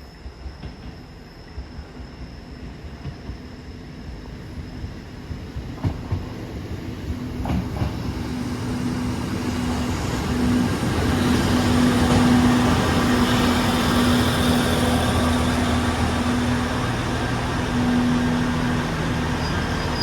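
JR KiHa 25 series diesel railcar pulling into the station. Its engine and wheels grow steadily louder over about ten seconds, then hold at a steady level with a low, steady engine note.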